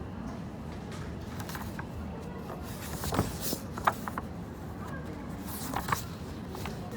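Café background: a steady murmur of distant chatter, with a few sharp clinks or knocks about three, four and six seconds in.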